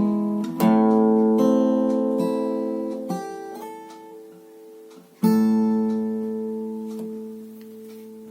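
Acoustic guitar playing slowly strummed chords, a few strums in the first three seconds, then a final chord about five seconds in that rings and slowly dies away.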